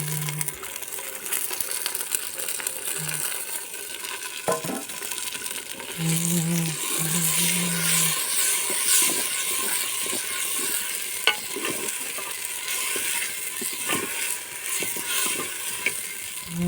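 Chicken sizzling in a hot handi pot while it is stirred: a steady frying hiss that grows louder about six seconds in, with a few sharp clicks of the spoon against the pot.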